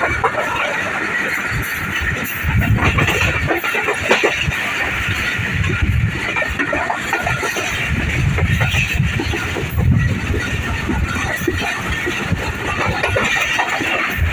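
Passenger train running at speed, heard from an open coach window: a steady rush of wheels on rails and passing air, with low rumbling swells every few seconds.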